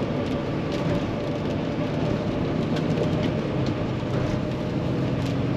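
Steady drone of a semi truck's diesel engine heard from inside the cab while driving, mixed with wet road and rain noise and a few faint ticks.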